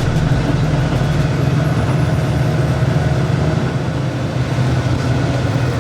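Steady low drone of engine and road noise heard from inside a moving tour bus.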